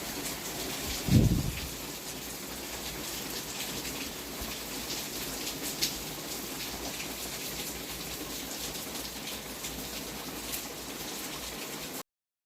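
Heavy thunderstorm rain falling steadily, with scattered drops ticking sharply on nearby surfaces. A short, loud low thump stands out about a second in.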